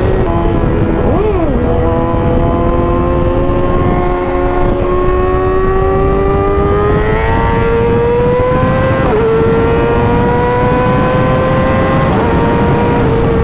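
Inline-four sport bike engine running hard at highway speed, its pitch climbing slowly through the gear with quick drops at shifts about 9 and 12 seconds in, over a steady rush of wind noise on the microphone.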